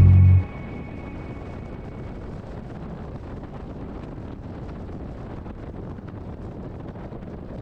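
Steady wind rush over the microphone with road noise from a motorcycle underway, after a music track cuts off about half a second in.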